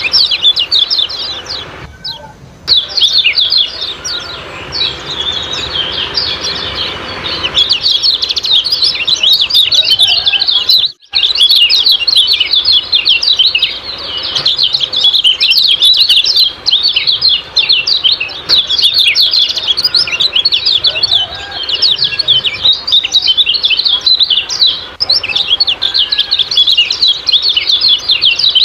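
Common iora (kecial kuning) giving a dense, rapid run of 'ciak-ciak' chattering chirps, with brief breaks about two seconds in and about eleven seconds in.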